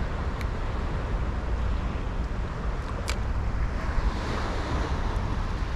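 Wind buffeting the microphone: a steady low rumble under a rushing hiss, with a faint click about three seconds in.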